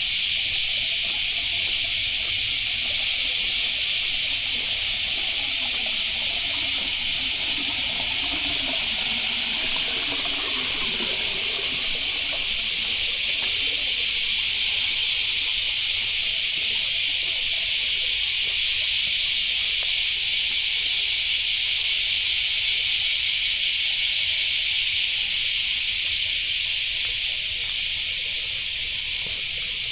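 Steady, high-pitched chorus of insects, unbroken throughout, typical of cicadas or crickets in summer or autumn vegetation.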